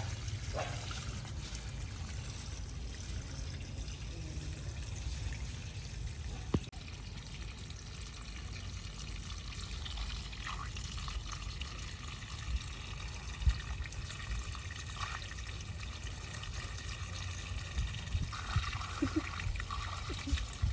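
Water trickling and pouring steadily, with a couple of sharp knocks along the way.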